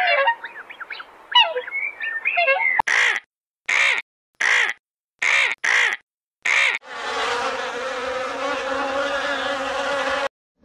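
A swan's calls, then six short bird calls in a row, then a swarm of honeybees buzzing steadily that starts about seven seconds in and stops shortly before the end.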